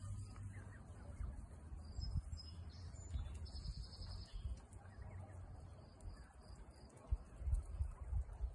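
High, short bird chirps, with a quick run of repeated notes about three and a half seconds in, over a low rumble on the microphone that has a few louder bumps near the end.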